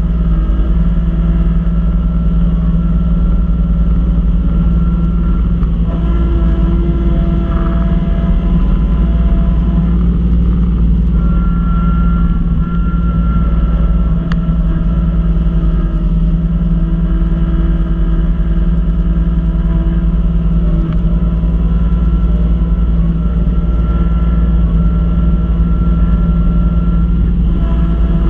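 Kubota B2650 compact tractor's three-cylinder diesel engine running steadily under load, driving a front-mount snow blower, with a few higher whines that come and go.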